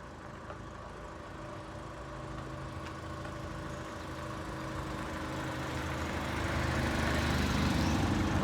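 An engine running steadily, growing louder over several seconds and then holding.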